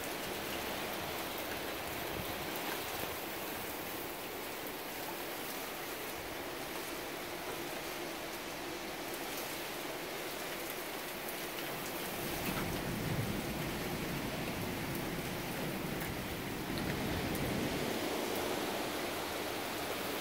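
Steady rain falling during a severe thunderstorm. Gusts of wind add a low rumble about twelve seconds in and again near the end, as the storm's winds pick up.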